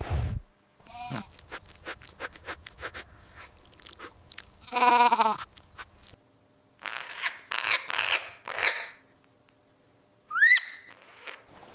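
Sheep bleating: one loud quavering bleat about five seconds in, then rougher, noisier bleats. Before it, a run of crunching clicks like chewing, and near the end a short rising chirp.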